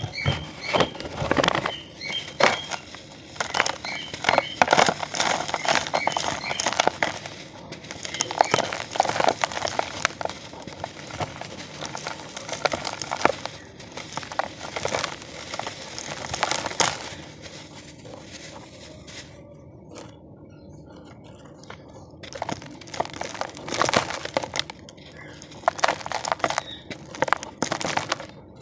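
Damp cement being crumbled: a dense run of crisp crackles and crunches that eases to a soft rustle for a few seconds past the middle, then picks up again.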